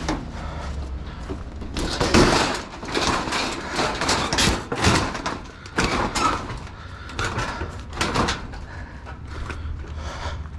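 Irregular knocks, bangs and scraping of scrap junk being handled and shifted, loudest from about two seconds in.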